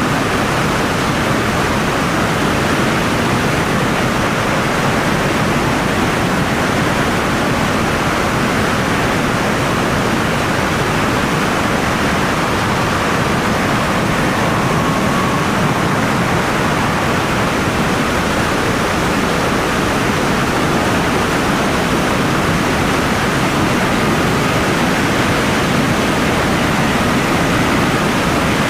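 Helicopter in flight: a steady, loud rushing noise with no clear beat or pitch.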